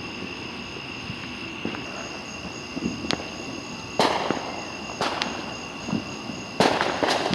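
Fireworks going off: a few small pops, then a run of sharp bangs with crackling after them, the loudest about four seconds in and again near the end.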